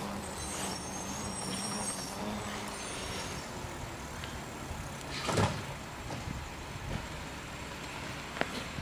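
Garbage truck's engine running, with high-pitched squealing in the first few seconds. A short, loud hiss comes about five seconds in and a sharp click near the end.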